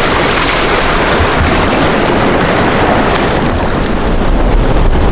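Loud Indian Ocean surf rushing at the shore, with wind buffeting the microphone; it gets a little louder near the end.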